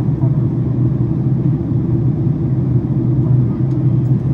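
Steady cabin roar of a Boeing 767-400ER during descent: engine and airflow noise heard from inside the passenger cabin, deep and even, with a low hum running through it.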